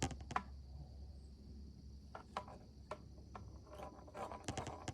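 Steady high trill of insects in the background, with scattered small clicks and taps from hands baiting a fishing hook with bread.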